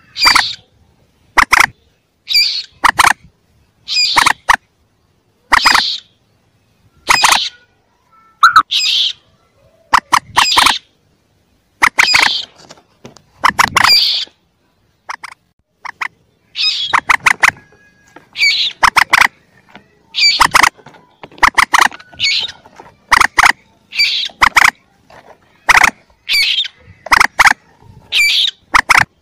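Common moorhen chick calls played as a hunting lure: short bursts of sharp, squeaky notes, repeating roughly every second and a half and coming closer together in the second half.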